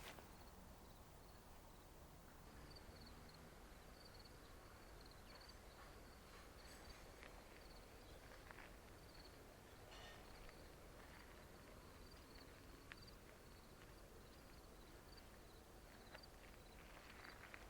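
Near silence with crickets chirping faintly: a steady, high, pulsing trill, with a few faint clicks.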